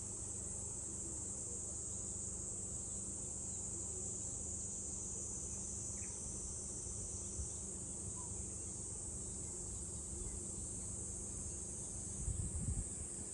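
Summer cicada chorus: a steady, high, unbroken drone. A brief low rumble comes in near the end.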